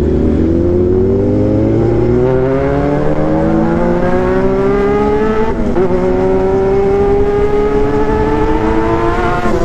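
A 1995 Honda CB400 Super Four's inline-four engine accelerating hard under a deafening exhaust note, its pitch climbing steadily. It drops briefly for a gear change about five and a half seconds in, then climbs again, with another change near the end.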